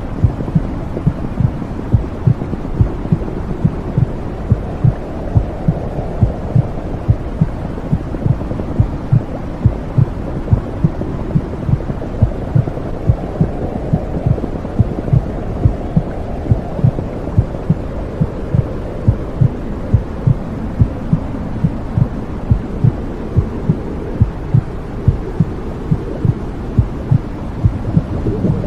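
Womb sound: a regular heartbeat thumping steadily over a constant low whooshing rumble.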